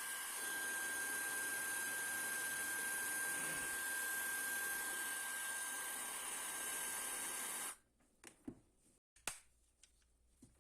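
Replica Dyson-style high-speed hair dryer running with a steady rush of air and a high whine, then switched off abruptly about three-quarters of the way in. A few sharp clicks follow as it is handled.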